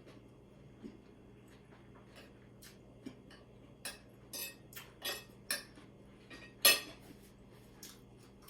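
Cutlery and dishes clinking: a scattered series of light clicks and clinks, the loudest about two-thirds of the way through, over a faint steady hum.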